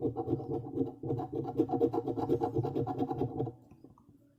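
Scratch-off lottery ticket being scratched, its coating rubbed away in rapid back-and-forth strokes that stop about three and a half seconds in.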